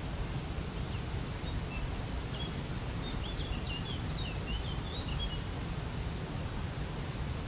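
Steady rush of a waterfall, with a small songbird chirping a quick series of short high notes over it for a few seconds in the middle.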